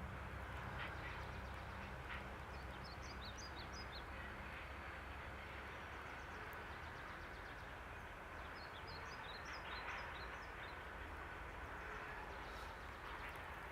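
Faint outdoor ambience: a steady low noise bed with two short runs of bird chirps, one a few seconds in and another about two-thirds of the way through.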